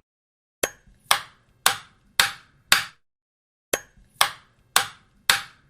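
Hammer blows nailing wooden boards: two rounds of sharp strikes, about two a second, with a pause of about a second between them.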